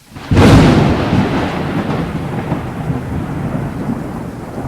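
A sudden thunderclap about a third of a second in, then a long rolling rumble of thunder over a steady hiss of rain.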